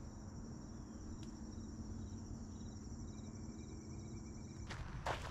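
Insects trilling in the marsh, a steady high-pitched cricket-like trill with faint, evenly repeated chirps under it. Near the end, a few footsteps.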